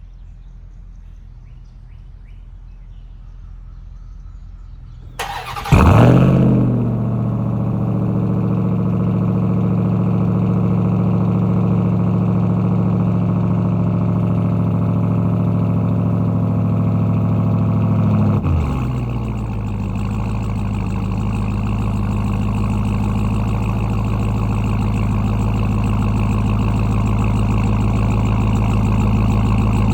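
Ram TRX's supercharged 6.2-litre Hemi V8 cranked and started about five seconds in, flaring up loudly and then settling into a steady idle. At about eighteen seconds the idle drops to a lower, steady speed.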